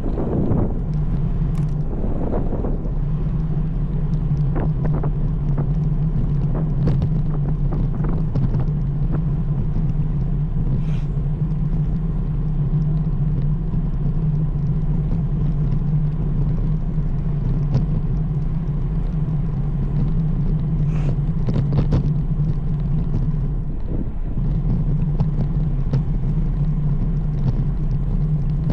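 Steady riding noise from a road bike under way: a low rumble with a constant low hum, typical of tyres rolling on pavement, with wind on the microphone. The hum drops briefly about three-quarters of the way through.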